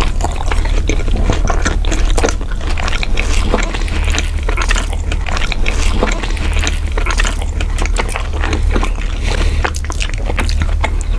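Close-miked ASMR eating sounds: wet chewing, smacking and crackly mouth clicks as pizza is bitten and chewed. A steady low hum sits underneath.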